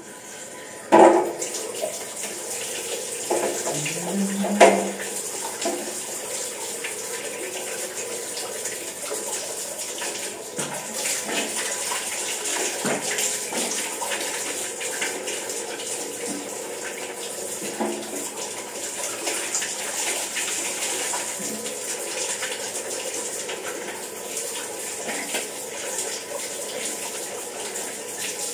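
Water running steadily from a tap and splashing as someone washes their face. Two sharp knocks stand out, about a second in and again near five seconds.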